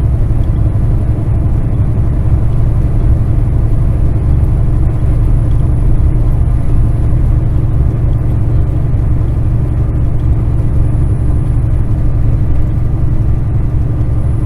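Kenworth semi truck's diesel engine and drivetrain running steadily under light load while cruising, heard from inside the cab as an even, low-pitched sound with no change in pitch.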